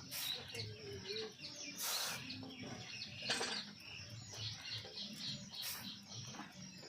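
Iron ticking irregularly as it expands and contracts with heat: about four sharp ticks, one to two seconds apart. Small birds chirp throughout.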